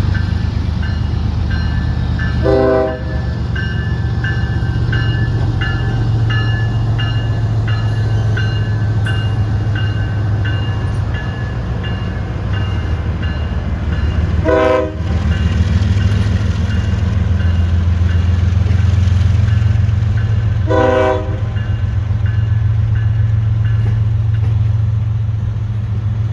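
Diesel locomotive running with a steady low rumble while its bell rings about once every 0.7 seconds. Three brief horn toots sound about 3, 15 and 21 seconds in.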